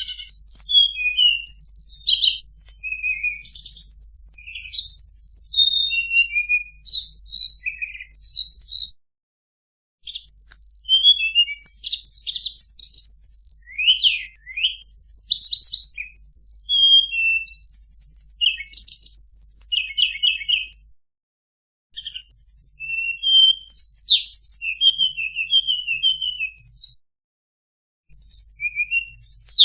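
Tledekan songbird singing in long bouts of quick, varied high chirps and short trills, broken by brief pauses about a third and two-thirds of the way through. A looped masteran tutor recording used to teach caged songbirds.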